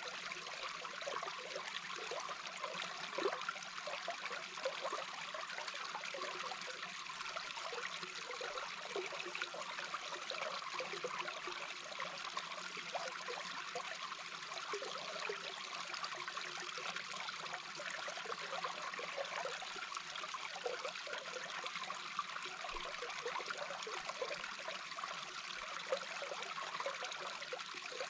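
A small brook heard from underwater: a steady rush of flowing water with many small bubbling gurgles throughout.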